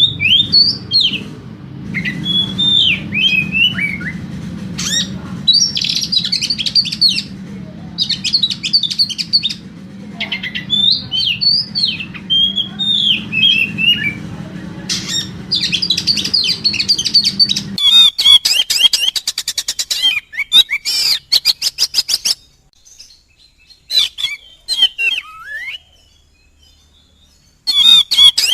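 Oriental magpie-robin (kacer) singing varied whistled phrases over a steady low hum, which cuts off suddenly about two-thirds of the way through. A fast run of rapid repeated sharp notes follows, then a quieter stretch with a few scattered calls, and the rapid notes start again near the end.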